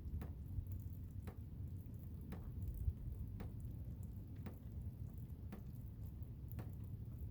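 Blizzard wind as a steady low rumble, with a faint sharp tick about once a second over it.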